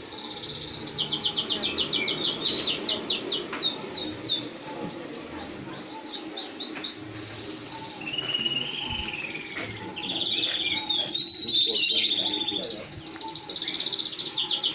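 Songbird singing: bouts of rapid, high, downward-sweeping chirps, several to the second, with a wavering whistled phrase in the middle.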